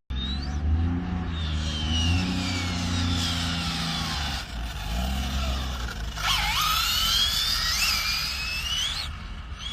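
Radio-controlled car motors whining at a high pitch. Long falling glides as the cars slow are followed, about six seconds in, by sharp rising whines as they speed up again, over a low steady drone.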